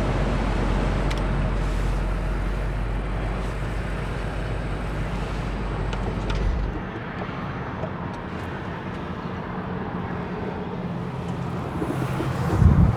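BMW X5 M Competition's twin-turbo V8 idling with a steady low rumble, then shut off about six and a half seconds in, leaving a quieter steady background noise. A short thump comes near the end.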